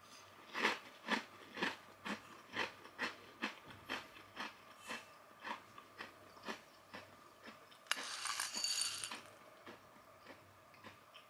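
Chewing a mouthful of light, crunchy spiced snack pieces: crisp crunches about two a second that fade as the mouthful breaks down. About eight seconds in, a spoon scoops through the snack pieces in a ceramic bowl with a rattle lasting just over a second.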